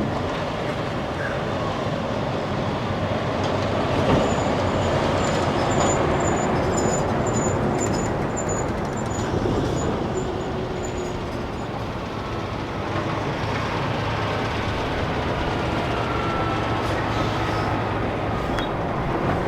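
Steady, loud noise of heavy vehicles passing. A faint high ticking comes in about twice a second through the middle.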